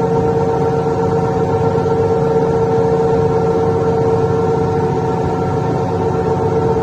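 Mercedes-Benz Citaro Ü bus engine running steadily, heard from inside the bus: a steady high whine over a low rumble. The bus's exhaust is defective.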